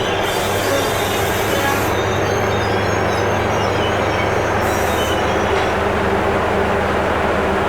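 Passenger train at the station, running with a steady loud rumble and hum. Two brief high-pitched bursts, one near the start and a shorter one about five seconds in, sit above it.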